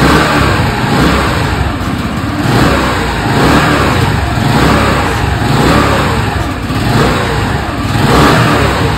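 Rebuilt Honda Spacy 150 scooter's single-cylinder four-stroke engine running. The revs rise and fall about once a second.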